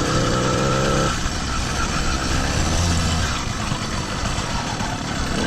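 Small engine of a motorized bicycle idling cold, just after being bump-started, while it warms up; its steady hum changes pitch about a second in.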